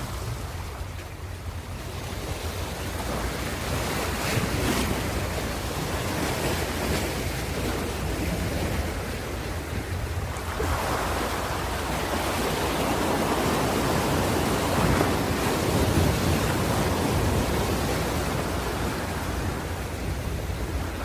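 Ocean surf washing ashore, waves breaking and swelling in a steady roar of noise with a deep rumble, a broad swell building about halfway through; some wind buffets the microphone.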